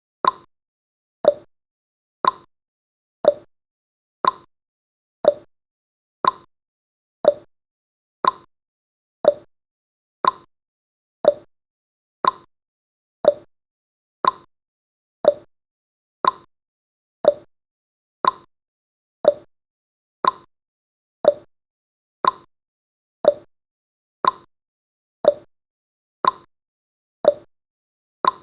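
Countdown timer's ticking sound effect: one short, sharp tick each second, evenly paced, marking off the seconds.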